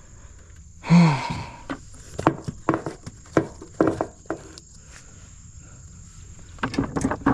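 A short exclamation about a second in, then a run of irregular sharp knocks and clicks, about eight over three seconds, and another quick cluster near the end.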